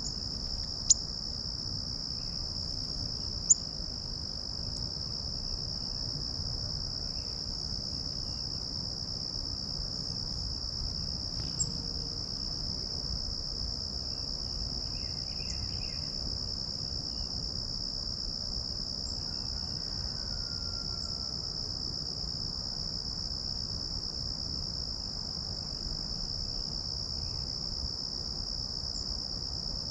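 Steady, high-pitched insect chorus, a continuous drone, with two sharp clicks about one and three and a half seconds in and a few faint bird chirps later.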